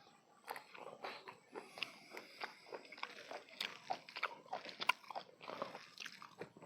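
Close-miked chewing: a mouth crunching and biting through food in many short, irregular crunches.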